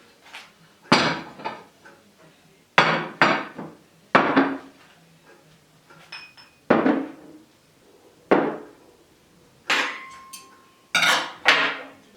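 Dishes and cutlery being handled and set down: about ten separate knocks and clinks, each ringing briefly.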